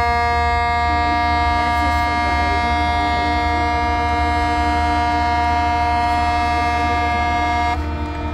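Ship's horn sounding one long, steady blast that cuts off sharply near the end, with a second, lower horn joining about a second in, over the steady low hum of the vessel's engine.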